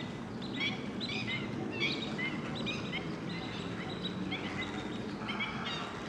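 Birds chirping in many short, quick calls, over a steady low background noise.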